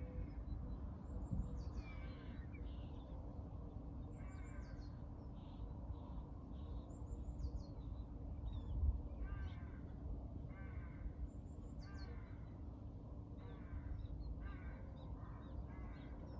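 Wild birds calling: harsh, caw-like calls, with a high falling call that repeats about every three to four seconds, over a steady low background rumble. There is one soft thump about nine seconds in.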